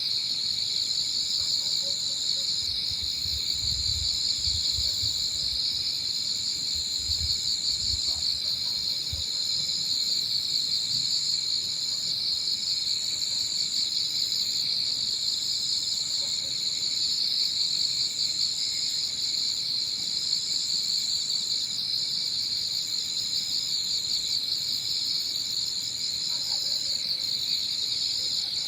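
Chorus of crickets and other autumn insects: a dense, steady trill with a higher, even buzz above it that breaks off briefly every second or two. Low wind rumble on the microphone comes and goes a few seconds in.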